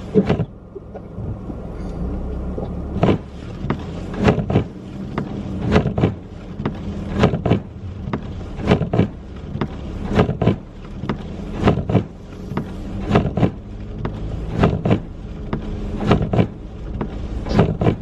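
Windshield wipers sweeping inside a moving car, a sharp double knock about every second and a half, over the steady hum of the car.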